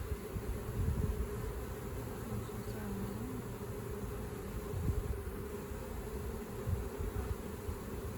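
Many honey bees buzzing around an opened hive: a steady, wavering hum. A low irregular rumble runs underneath.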